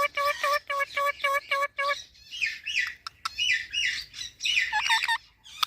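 Indian ringneck parrot calling: a run of about eight short, repeated calls at roughly four a second, then a rapid chatter of varied, sliding notes.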